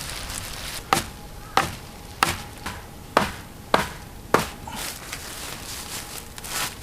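Six quick chopping strikes on wood, about one every 0.6 s, then they stop.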